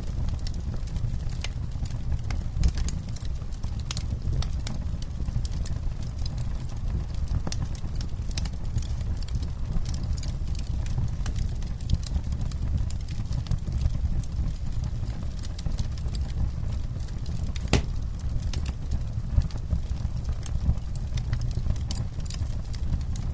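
Campfire burning: wood crackling and popping in frequent sharp snaps over a steady low rumble, with one louder pop near the end.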